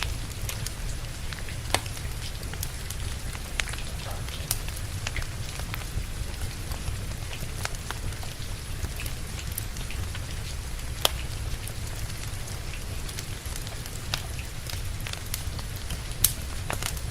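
Wood fire crackling, with sharp pops at irregular intervals and one louder pop about two-thirds of the way through, over steady rain and a low rumble.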